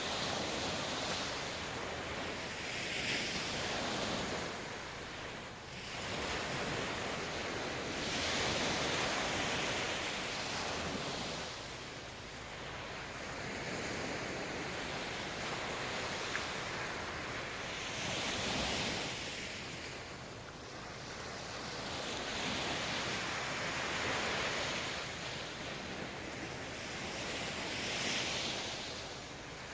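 Sea waves breaking and washing on the shore, each surge swelling and falling back every few seconds, with wind on the microphone.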